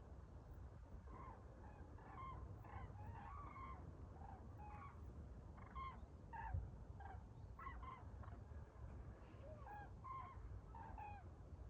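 A flock of common cranes calling back and forth, faint trumpeting calls coming many times in quick succession over a low steady rumble.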